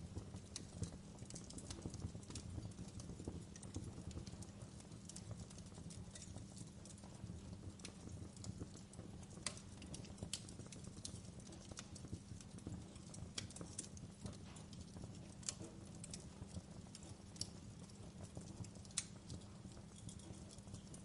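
Wood fire burning with irregular crackles and sharp pops over a soft low rumble of flames.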